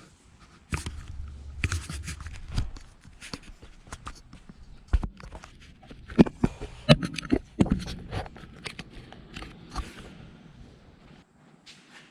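Hand tools and metal parts being handled: irregular clinks, knocks and scrapes, loudest and closest together about halfway through.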